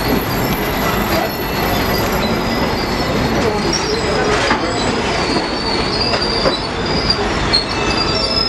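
Train rolling slowly past with its steel wheels squealing against the rails, a thin, high, wavering squeal over a steady rumble.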